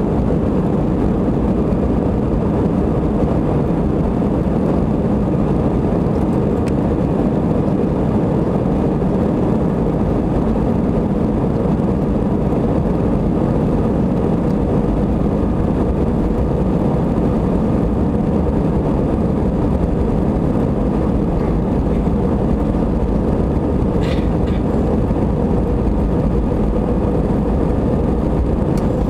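Airliner's jet engines running, a steady loud rumble with no rise or fall in pitch.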